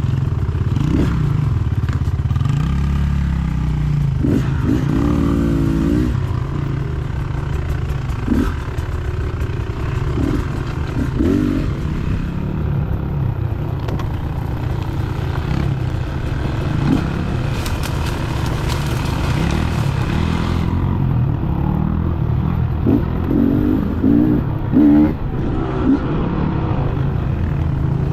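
Dirt bike engine running while riding, the revs rising and falling as the throttle is worked.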